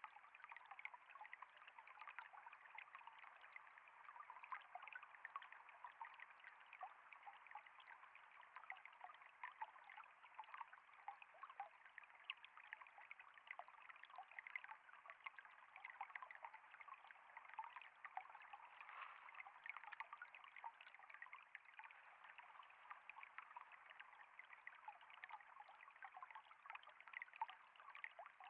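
A small flow of water trickling, heard as a faint, steady babble of many tiny splashes.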